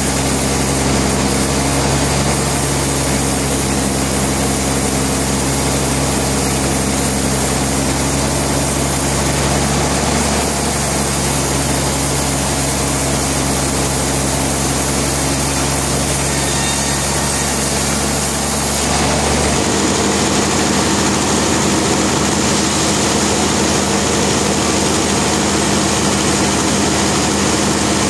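Sawmill machinery running steadily with a loud, even mechanical drone. About two-thirds of the way in, the sound shifts as the deep low hum drops away and the high hiss fades.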